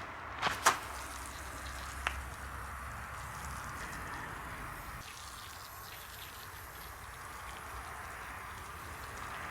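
Steady hissing splash of running or spraying water, with two sharp knocks about half a second in and another about two seconds in.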